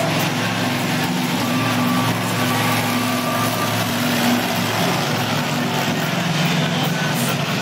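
Truck engine idling steadily, a low, even drone.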